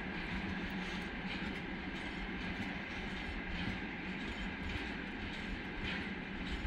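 Freight train's covered hopper and gondola wagons rolling past: a steady rumble of steel wheels on rail, with faint irregular clicks from the wheels over the track.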